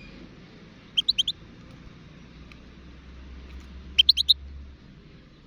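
European goldfinch calling: two short bursts, each a quick run of four high chirping notes, about three seconds apart.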